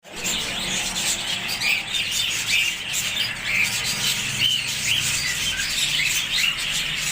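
A flock of parrots chattering: many short, overlapping chirps and squawks.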